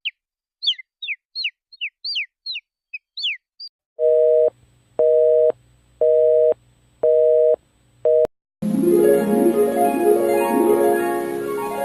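A quick run of a dozen short, high, falling chirps, then a telephone busy signal: a steady two-tone beep sounding about once a second, five times, the last one cut short. Plucked-string or keyboard music starts right after the beeps stop.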